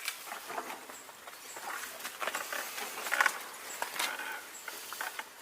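Footsteps on a gritty, littered floor: irregular scuffs and crunches.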